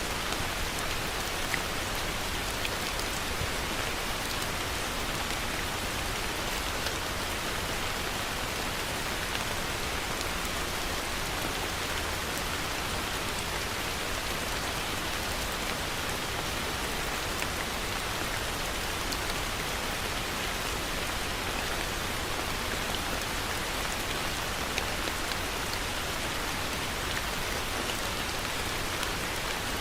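Heavy rain falling steadily, an even hiss of water with scattered individual drop ticks.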